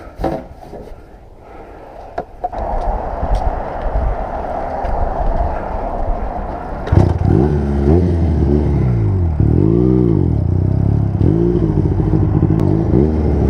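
A few clattering knocks, then a motorcycle engine starts about halfway through and is revved up and down several times before settling into a steady run.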